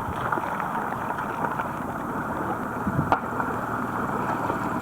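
Small escort boat underway: its motor running steadily under the sound of water and wind. There is one sharp click about three seconds in.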